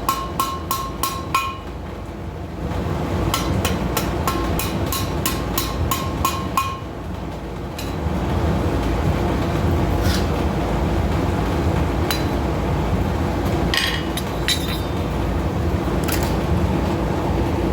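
Hand hammer striking hot steel on an anvil in quick, light, ringing taps, about three a second, in two runs during the first seven seconds. After about eight seconds a steady rushing noise carries on, with a few scattered clinks.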